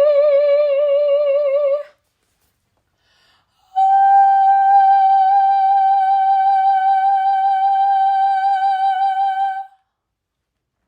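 A soprano voice holds a sung note with a wavering vibrato, which stops about two seconds in. After a short pause, the voice sustains one long, higher note for about six seconds, with only slight vibrato.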